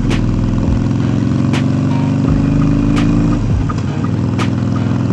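Harley-Davidson V-twin motorcycle engine running under way, pitch slowly rising as it accelerates, then dropping about three and a half seconds in as the revs fall or it shifts gear.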